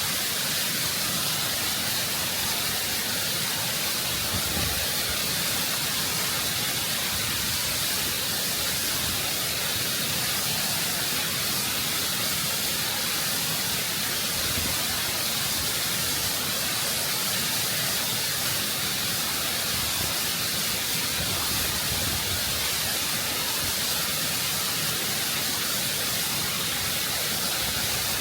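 Waterfall water rushing and cascading over rock, heard close up as a steady, full hiss without change.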